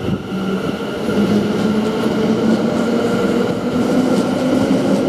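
Class 730 electric multiple unit departing, with its traction whine and wheel rumble; the lowest whine rises slightly in pitch as it gathers speed.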